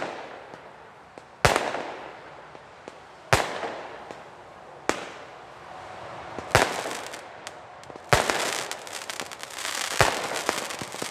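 Weco Pyro Concept 905 firework compound battery firing shot after shot, a sharp bang about every two seconds, each trailing off in a hiss. From about eight seconds in, a dense crackling fills the gaps between the bangs.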